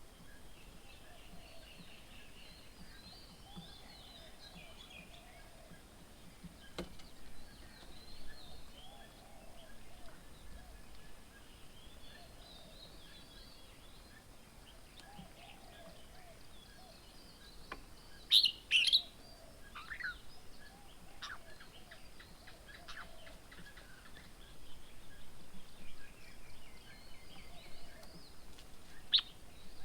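Several birds calling and chirping, with a pair of louder, sharp calls about two-thirds of the way through and another near the end.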